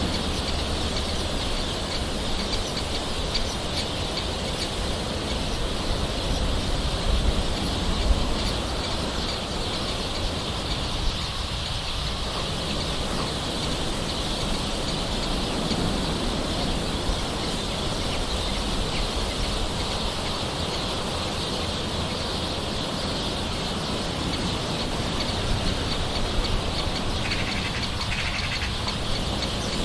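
Steady light rain with birds calling in the background.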